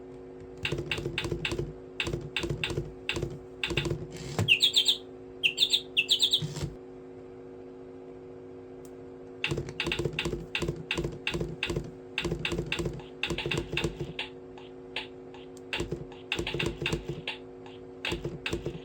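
Rapid clicking in clusters over a steady low hum, with three short high chirps about five seconds in.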